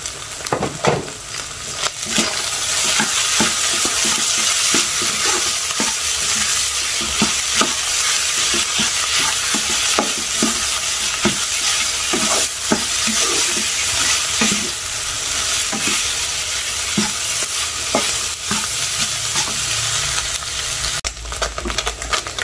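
Shredded fish sizzling as it is dry-fried in a non-stick wok, with a steady frying hiss and frequent short knocks and scrapes as a plastic spatula stirs it. The fish is being stirred until it turns crisp.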